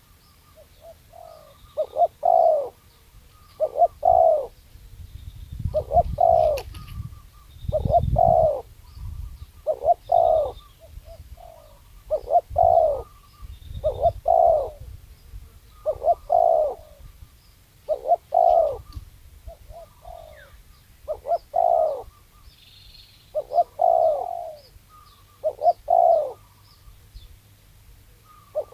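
Spotted dove (tekukur) cooing, its short multi-note phrase repeated about every two seconds, with faint high chirps of small birds between the phrases.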